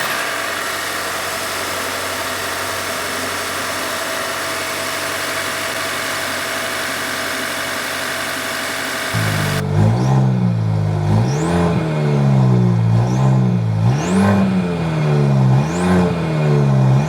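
Mercedes-Benz E350's turbocharged 2.0-litre four-cylinder running at idle with a steady hiss. From about nine seconds in it is revved again and again, its pitch rising and falling with each blip of the throttle.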